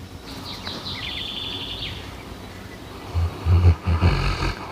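A dog snoring: a run of loud, low snores starting about three seconds in. A bird chirps in a quick trill in the background near the start.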